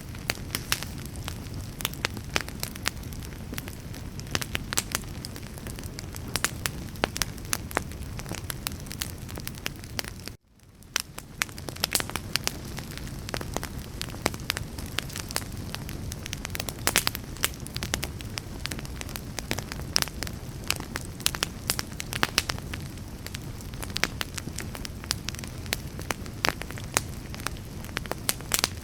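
Wood fire burning with a steady low rumble and frequent sharp, irregular crackles and pops. About ten seconds in, the sound cuts out abruptly for a moment and then fades back in.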